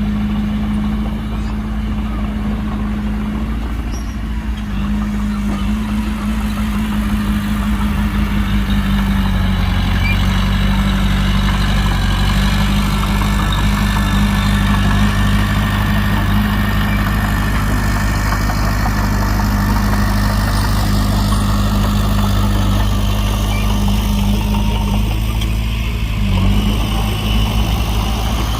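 Heavy diesel engine of construction machinery running steadily, its pitch shifting slightly about a third of the way in and briefly near the end.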